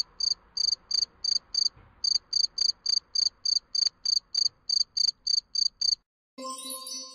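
Cricket chirping: a steady run of short, high, evenly spaced chirps, about three a second. The chirps stop about six seconds in, and a short, different steady tone sounds near the end.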